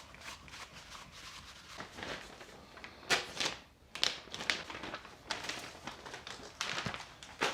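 Hands handling a gasket and small engine parts: a run of light clicks and rustles, with a few sharper rustling scrapes about three and four seconds in.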